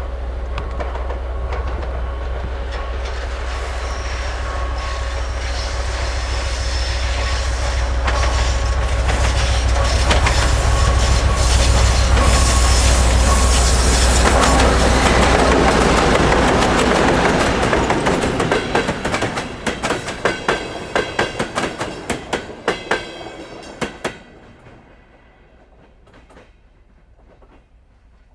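2M62U twin-section diesel locomotive, with two-stroke V12 diesel engines, passing at speed with a loud low drone that builds to a peak and then falls away. After it come the passenger coaches, their wheels clicking rhythmically over the rail joints, before the sound fades off near the end.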